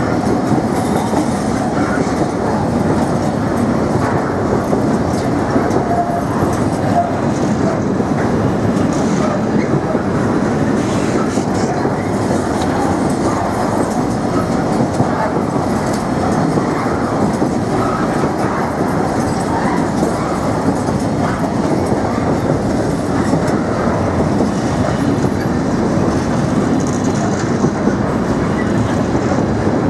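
Intermodal container wagons of a freight train running through at speed: a steady loud rumble of steel wheels on rail, with the wheelsets clattering over rail joints.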